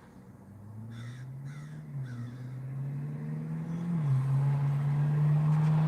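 Sports car engine accelerating and getting steadily louder as it approaches, its pitch climbing and dropping twice as it shifts up through the gears. A crow caws three times about a second in.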